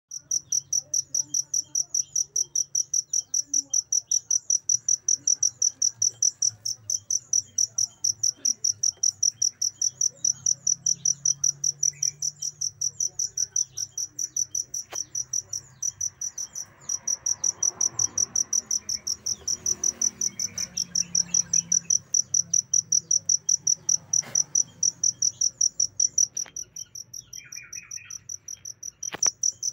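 Cricket (jangkrik) chirping in a fast, even run of short high-pitched pulses, with a brief break about midway and a softer stretch near the end.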